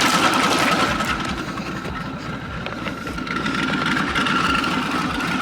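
Car engine idling with a choppy, pulsing low note and a steady high whine over it; the sound eases off for a couple of seconds mid-way, then comes back up.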